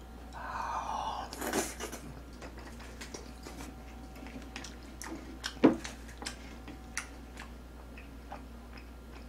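Close-miked mouth sounds of eating chicken stew: chewing and a short wet slurp about a second in, then scattered light clicks of a spoon on the rice bowl, the sharpest one about halfway through.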